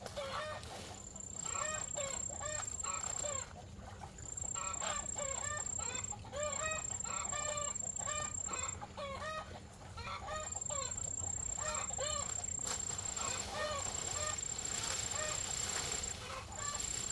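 Chickens clucking, many short calls in quick succession, over a steady high-pitched drone that breaks off and starts again several times.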